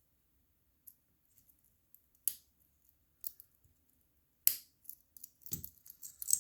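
Metal folding clasp of a replica Rolex bracelet being closed and tested: about six sharp clicks, the loudest about four and a half seconds in, with softer ticks between. The clicks come as the clasp's roller rides over its freshly straightened locking fin and snaps into place.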